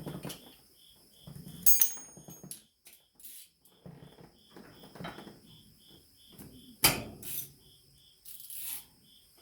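Hand tools working on the Ford 2N tractor's manifold nuts and bolts: scattered metal clinks, knocks and scrapes. A sharp clink with a brief metallic ring comes about two seconds in, and a louder knock near seven seconds.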